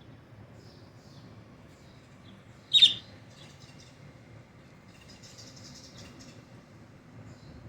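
A pet bird gives one loud, short distance call about three seconds in. Fainter, rapid chirping follows a couple of seconds later.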